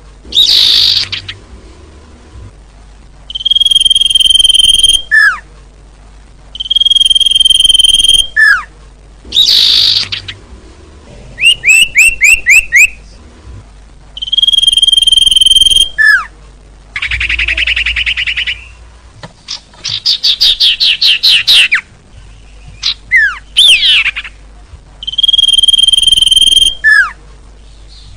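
Bird-lure recording of small songbird calls: a steady high whistle about a second and a half long, repeated every few seconds, alternating with short falling chirps and fast trills of rapid notes. A dense buzzy chatter comes about two-thirds of the way through.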